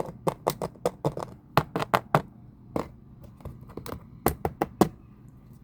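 Fingers tapping on the hard ice coating a frozen umbrella: a quick, irregular series of sharp clicks.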